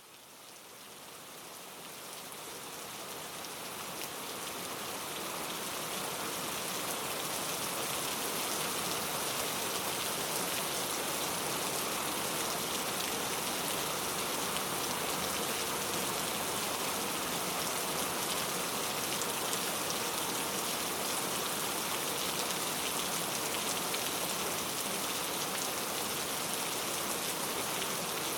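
Steady rain falling, a dense patter of drops. It fades in over the first several seconds, then holds even.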